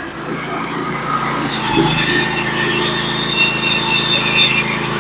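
Norwood HD36v2 portable bandsaw mill running with a steady engine note. About a second and a half in, a high hiss with thin squealing whines joins as the band blade cuts through the log.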